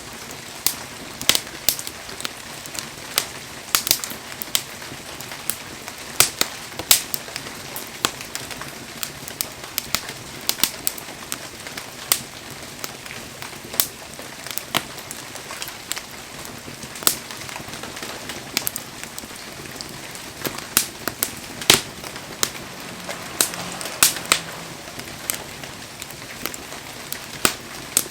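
Firewood burning in an open fire, crackling with irregular sharp pops, a few a second, over a steady hiss.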